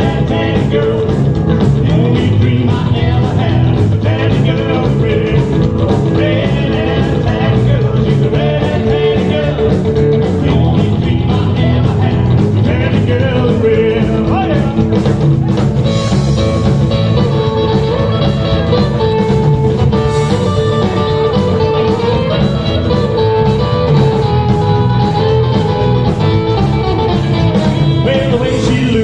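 Live rock and roll band playing with guitar, drums and a singer, at a steady beat of about two strokes a second.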